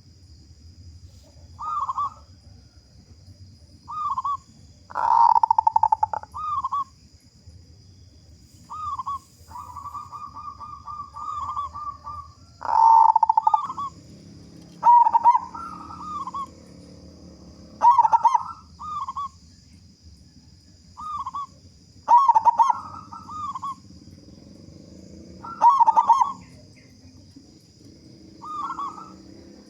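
Zebra dove (local perkutut) cooing in short repeated phrases a second or two apart, with one quick rolling run of repeated notes about ten seconds in; the strong full voice that makes it a lure to set other perkutut singing.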